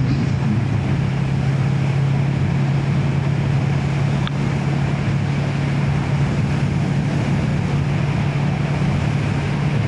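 Motorcycle engine running at a steady, unchanging pitch while riding at constant speed, with wind and road noise over the helmet microphone.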